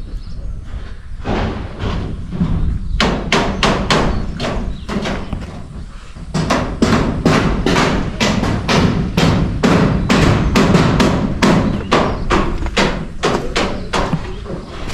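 Hammer blows struck in quick runs, about three a second, starting about three seconds in, with a short pause near the middle.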